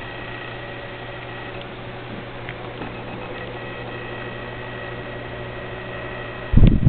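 Steady low hum with a few faint high steady tones, like a household appliance running. About six and a half seconds in, a sudden loud, low rumbling starts.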